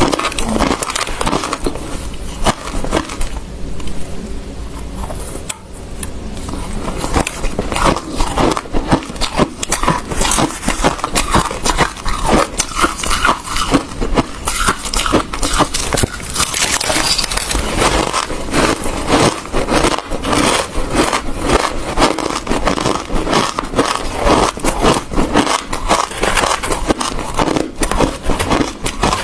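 A person chewing hard ice close to the microphone: dense, rapid crunching and crackling, which eases for a few seconds early on and then picks up again.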